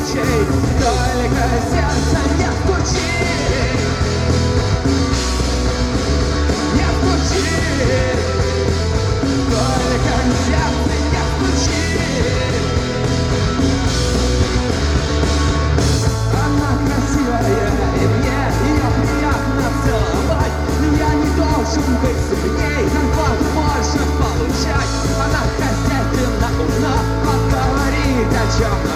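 A rock band playing live, with sung vocals over electric guitars, bass and drums.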